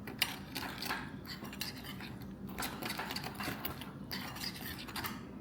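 A spoon stirring a liquid marinade in a bowl, with quick repeated clinks and scrapes against the bowl and one sharper clink near the start.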